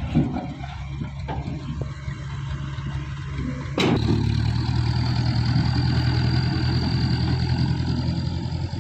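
Truck engine idling steadily with a few clicks. About four seconds in a sharp click is heard, and the running gets louder, with a thin high whine over it.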